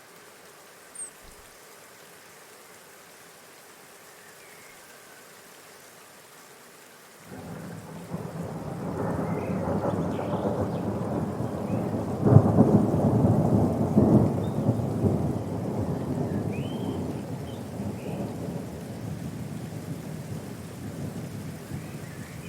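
A loud rumbling noise starts suddenly about seven seconds in, swells, then slowly fades away. Faint bird chirps come through the quiet before it.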